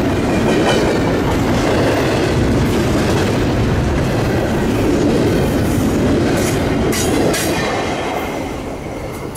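Intermodal freight train cars rolling past: a steady rumble of steel wheels on rail with clickety-clack over the rail joints, and a few sharp high squeals or clicks about seven seconds in. The sound eases slightly near the end.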